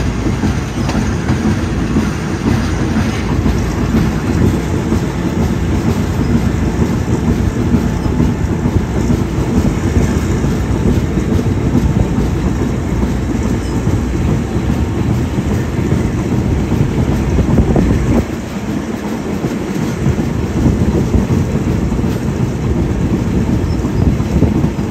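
Train wheels rumbling and clattering on the rails, heard from a moving passenger coach, with a steady running rumble throughout. The low rumble eases briefly about eighteen seconds in.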